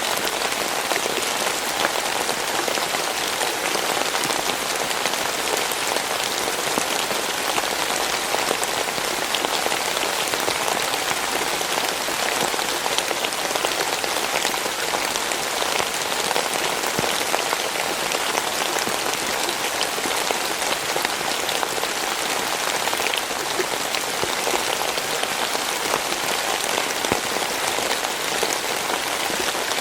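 Steady rainfall with a dense patter of drops hitting a surface, even and unbroken.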